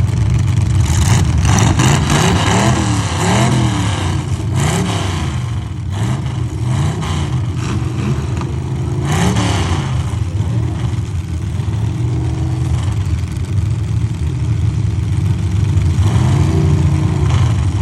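Several demolition derby truck engines revving up and down hard, with occasional bangs of trucks colliding.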